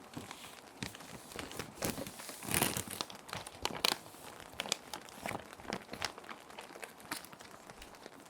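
Plastic sheet protectors crinkling and rustling as sheets of paper are slid in and handled: irregular sharp crackles, with a denser rustle about two and a half seconds in. A soft steady hiss of rain sounds runs underneath.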